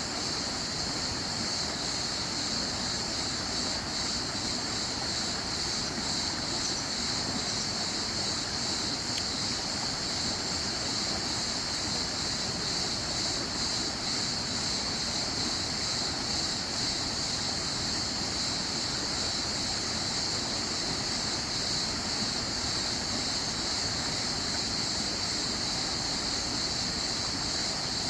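Running water flowing steadily: a continuous, even rush with a bright hiss, unchanging throughout.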